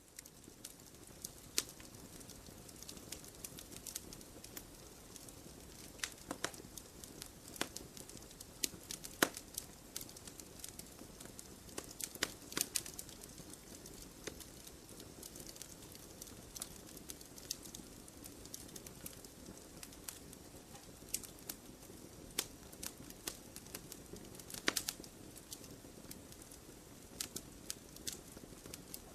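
Fire in a fireplace crackling: a steady soft hiss with irregular pops and snaps, a few of them sharper and louder than the rest.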